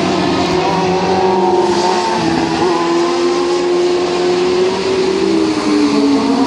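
Loud racing exhaust of a sportbike engine under power, holding a steady pitch and then falling in pitch about five seconds in.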